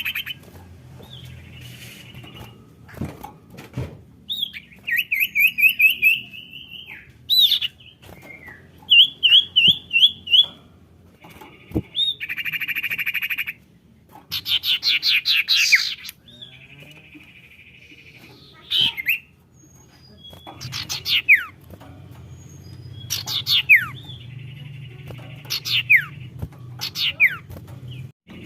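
Common iora (sirtu, cipoh) calling in varied phrases: buzzy trills held for about a second, quick runs of rising chirps and sharp falling whistles, with short gaps between them. A faint low hum runs underneath.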